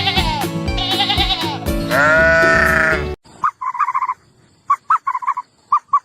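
An animal bleating three times with a quavering voice, the last bleat long, over background music. About three seconds in the music cuts off, and a run of short, quieter calls follows in three clusters.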